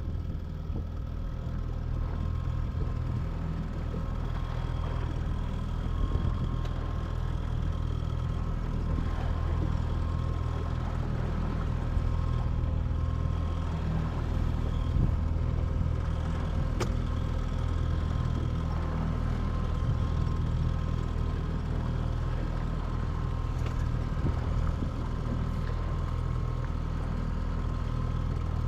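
Boat motor running steadily at low speed, a low even hum with a faint whine on top and wind and water noise around it.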